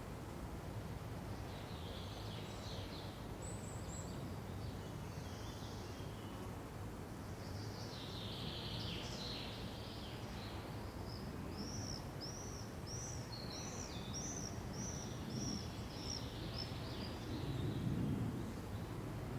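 Wild birds calling over a steady low background hum. From about halfway through, one bird sings a run of about a dozen short, evenly spaced notes, roughly two a second. A brief low swell of sound comes near the end.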